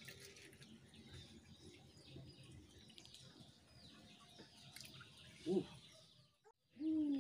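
Faint background of small birds chirping, with one brief pitched call about five and a half seconds in. The sound cuts out briefly near the end.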